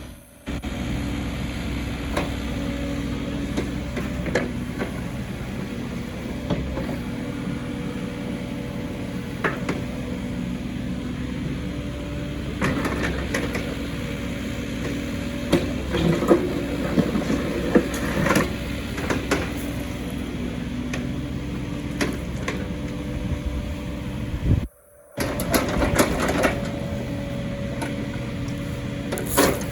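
Caterpillar 308E2 CR mini excavator's diesel engine running steadily, with scattered metallic clanks and clicks from the machine, most of them around the middle. The sound cuts out for about half a second near the end.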